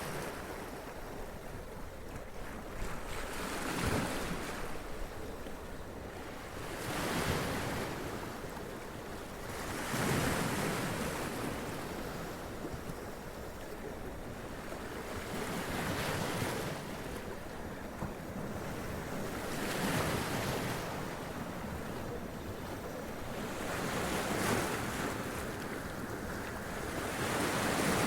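Sea waves splashing and running up over rocks, with a surge of surf every three to four seconds over a steady wash of water.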